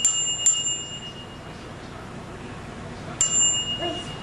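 Bicycle bell rung with a thumb lever: two quick dings at the start, then a pause, then one more ding about three seconds in, each ringing on for about a second.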